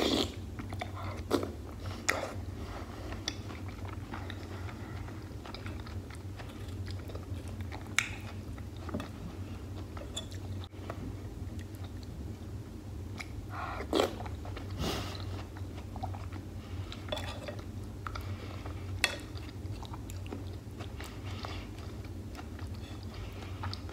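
Close-miked chewing and wet mouth sounds of a person eating beef and tomato stew, with scattered sharper clicks and smacks over a steady low hum.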